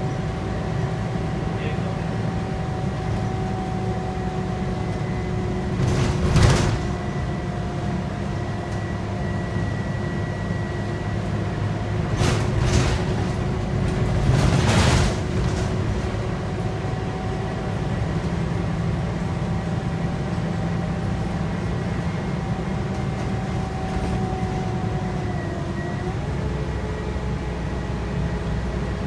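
Interior sound of a Scania K230UB bus under way: its 8.9-litre five-cylinder Scania DC9 diesel running with a steady low rumble and a whine, with short bursts of hissing noise about 6, 12 and 15 seconds in. About 26 seconds in the engine note steps up in pitch.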